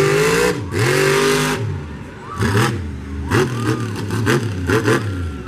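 Monster truck engine revving hard: a long sustained rev, then short throttle blips about twice a second, the pitch rising and falling with each.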